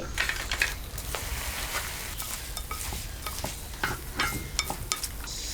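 Food frying and sizzling in hot oil while a spatula stirs it, scraping and clinking against the pan at irregular moments.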